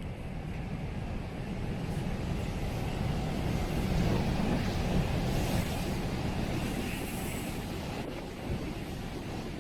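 Strong headwind buffeting the microphone on the open deck of a fast ferry under way, a heavy, gusting rumble with the rush of the ship's passage beneath it; it swells in the middle.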